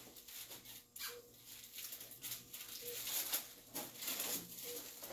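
Rustling and light handling noises, crinkly and irregular, as sterile wraps and supplies are handled. Under them, a faint short beep repeats about every two seconds.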